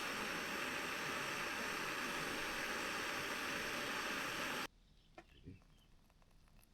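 A steady, even hiss that cuts off abruptly about two-thirds of the way through, leaving faint outdoor ambience with a few soft clicks.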